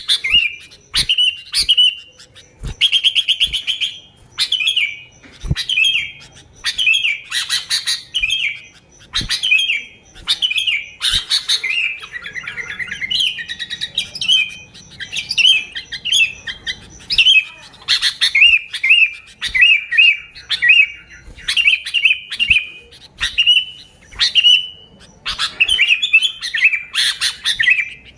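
Sooty-headed bulbul (kutilang) calling lively and almost without pause: short, bubbly chirping phrases repeated one after another, a few each second.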